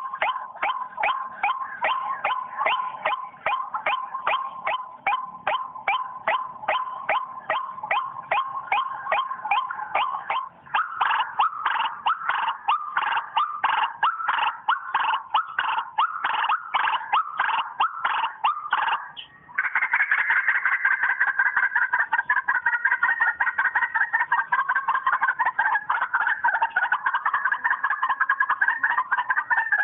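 White-breasted waterhen calls: an even run of repeated call notes, about two or three a second, growing denser about ten seconds in. Near twenty seconds in they turn into a continuous, overlapping chorus.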